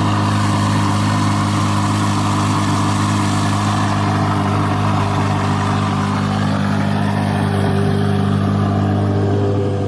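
A V8 sports car idling steadily through a loud aftermarket exhaust, with a deep, even drone.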